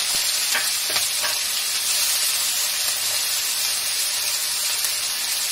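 Chopped onion, green chilli, crushed garlic and ginger, and whole coriander seeds sizzling steadily in hot oil in a steel pan, with a few light clicks.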